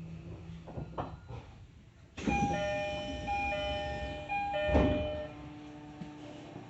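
Train door chime starting about two seconds in, two bell-like tones alternating back and forth several times. A heavy thud comes near the end, over the quiet hum of the stopped train.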